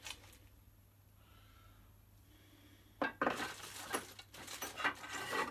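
Small loose metal parts and hardware clinking and rattling as they are handled, a dense clatter starting about three seconds in after one click and a quiet stretch.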